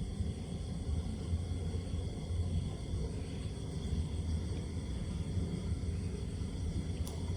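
Steady low background rumble, with one brief faint click near the end.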